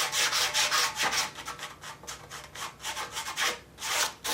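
Quick back-and-forth hand strokes of an abrasive, a file or sandpaper, scraping over body filler on a steel tractor fender, several strokes a second, with a brief pause near the end.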